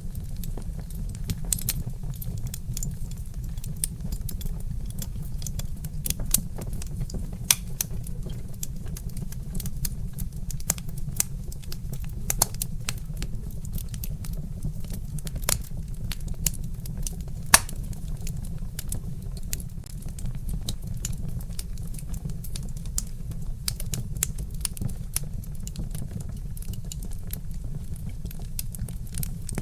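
Burning logs crackling, with frequent irregular sharp pops and snaps over a steady low rumble; one snap a little past the middle is louder than the rest.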